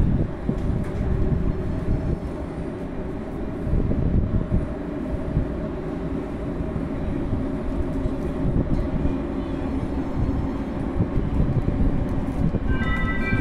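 ČD class 471 CityElefant double-deck electric multiple unit approaching slowly along the platform: a steady low rumble of wheels and running gear. Near the end, a high squeal of several tones sets in.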